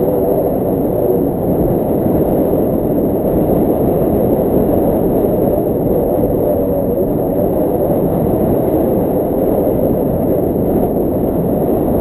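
Wind rushing over the camera microphone during a paraglider flight: a loud, steady, low rumbling rush.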